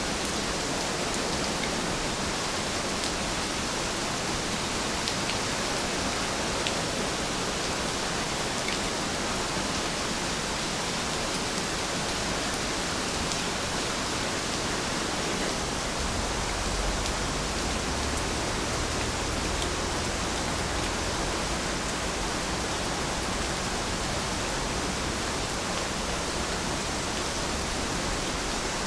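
Heavy rain falling steadily, an even hiss with faint drop ticks. A low rumble swells briefly about two-thirds of the way through.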